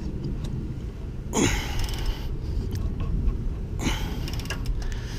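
The crankshaft of a Chrysler 3.5L V6 being turned over by hand with a wrench against compression, with two breathy whooshes that fall in pitch, about a second and a half in and again near four seconds, and a few faint clicks.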